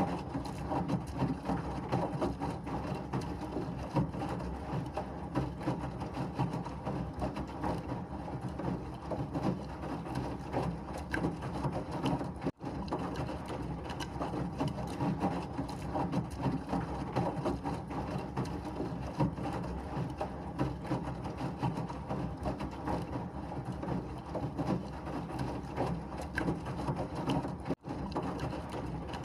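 Washing machine running: a steady whirring noise with a dense, fast rattle of small clicks, cutting out for an instant twice.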